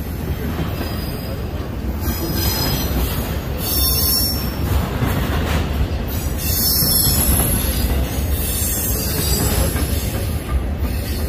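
Empty intermodal flatcars of a Union Pacific freight train rolling past with a steady low rumble of wheels on rail, and high-pitched wheel squeal rising and fading several times.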